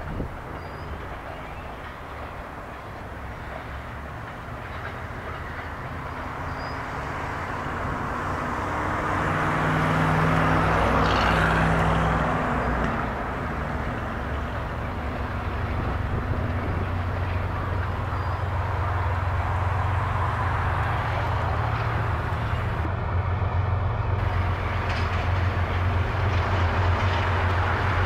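Freight train of covered grain hopper cars rolling past, steel wheels running on the rails. It builds in loudness, swells about ten seconds in, then stays strong with a steady low hum underneath.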